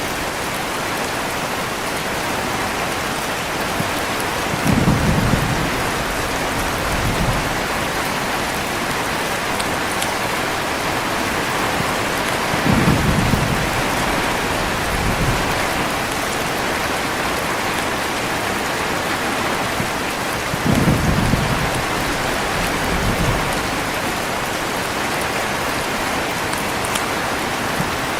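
Heavy steady rain with low thunder rumbles rolling in every few seconds, each lasting a second or two.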